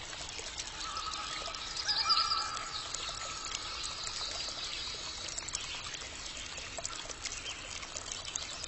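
Water trickling and splashing steadily. A short wavering animal call comes about two seconds in.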